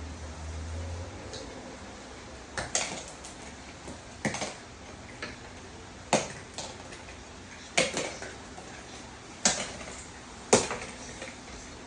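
Hard toy pieces clattering and knocking as a cockatoo picks them up and tosses them, with sharp hits coming one every one to two seconds, several of them in quick pairs.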